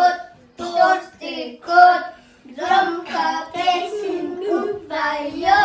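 Children singing a song in Russian.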